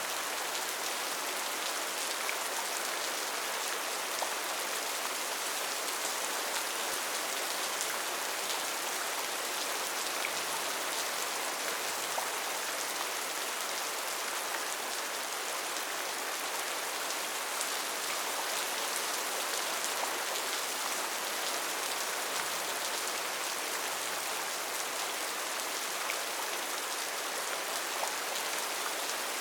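Steady rain falling on rainforest foliage, an even hiss with scattered individual drop ticks.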